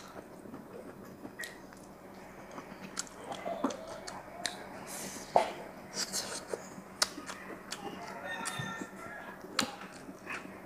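Close-up eating sounds: chewing a mouthful of rice and braised fish, with wet mouth clicks and smacks. Scattered sharp clicks throughout, the loudest about five seconds in.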